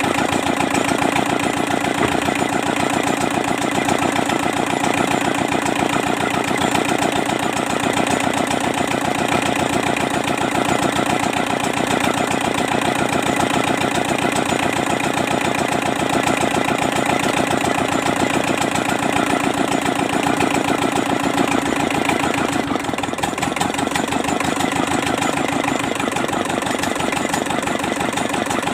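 Kubota Z751 two-cylinder diesel engine running steadily with an even firing beat.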